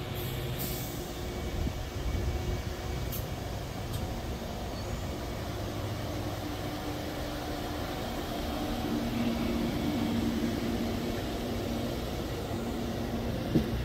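Amtrak Amfleet passenger cars rolling slowly past at close range: a steady low rumble of wheels on the rails.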